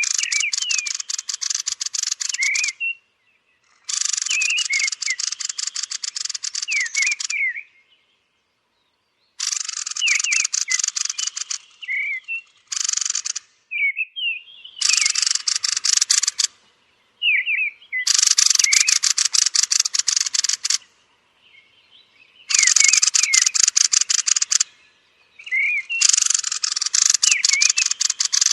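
Thrushes (Turdus) giving their roosting calls: fast runs of sharp clicking notes with thin whistled calls mixed in, in bursts of two to three seconds separated by short pauses.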